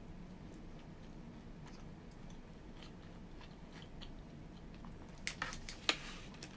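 Quiet chewing and biting of bento food, with a few sharp clicks about five seconds in from chopsticks knocking the plastic bento tray.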